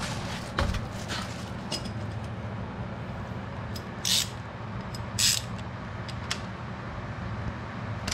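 Yamaha VMAX V4 engine idling steadily, with two short hisses about four and five seconds in and a few light clicks early on.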